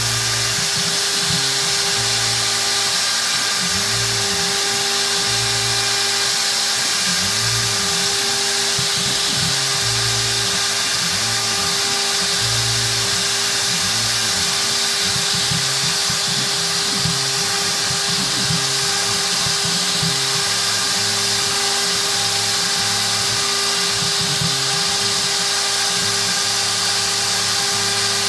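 CNC router spindle whining steadily as it mills G10 fibreglass sheet into quadcopter frames, with a hiss from the cutter. Lower tones rise and fall underneath as the machine's axes move along the cut.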